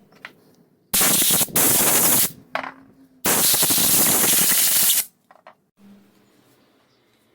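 Two long hissing blasts of pressurised spray, the first about a second and a half with a brief break in it, the second nearly two seconds, with a few light clicks around them.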